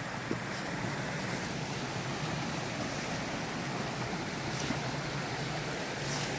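Steady outdoor rushing noise with a few faint, short crackles scattered through it.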